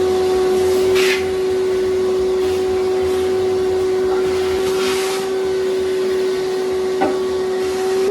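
Small shop vac running steadily with a high whine, sucking water out of a toilet tank and bowl. Brief hissing surges come about a second in and again near five seconds, and there is a short knock about seven seconds in.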